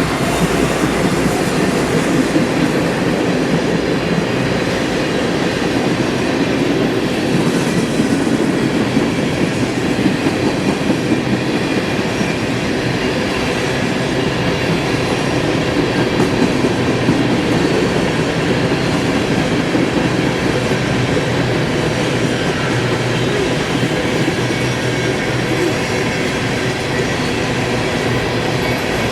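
Norfolk Southern freight train rolling past, its cars' wheels clattering steadily over the rail joints.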